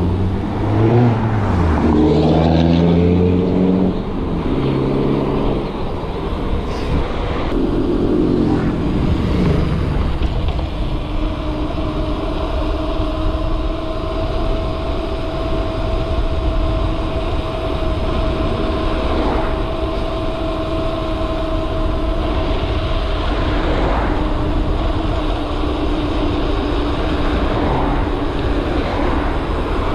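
Road traffic: a motor vehicle's engine revs up and down over the first few seconds, then a steady engine hum holds for a long stretch, all over a constant low rumble.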